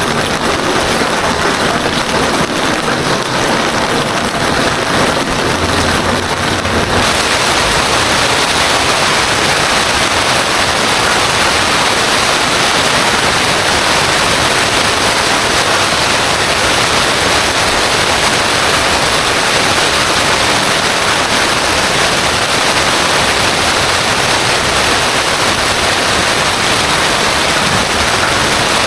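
Heavy rain falling steadily, a dense, even hiss with no break. About seven seconds in it turns a little louder and fuller.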